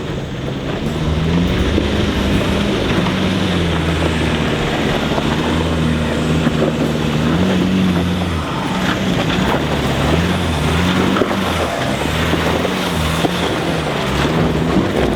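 Four-wheel-drive vehicle's engine working up a steep dirt climb, its revs rising and falling repeatedly with the throttle.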